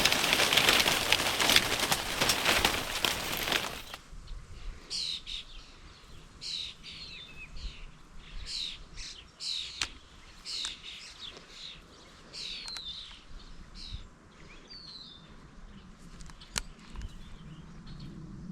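Birds calling: a high call that slides downward, repeated about once a second, along with other chirps. The calls follow a loud rush of noise that fills the first few seconds and ends suddenly.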